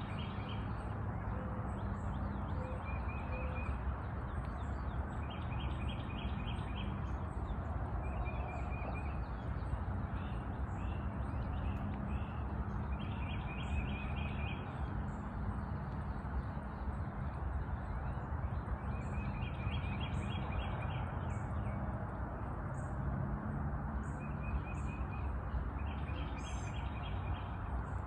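Songbird singing short, rapid trilled phrases every few seconds, with thin high chips between them, over a steady low rumble of outdoor background noise.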